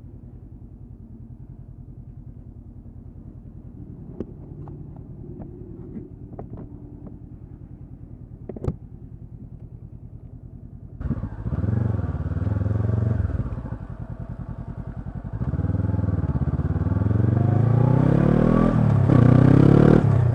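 Honda CB500X parallel-twin engine with a Staintune exhaust idling, with a few sharp clicks. About eleven seconds in it turns loud as the bike pulls away, and the engine note climbs as it accelerates.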